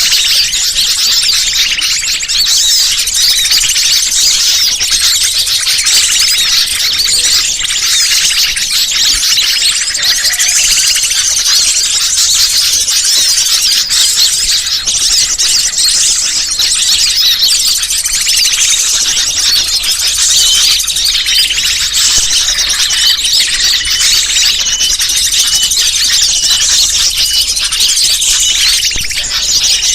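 Bird-lure (pikat) recording: a dense, unbroken chorus of high-pitched chirps and squeaks from many small birds calling over one another, played to draw wild birds in.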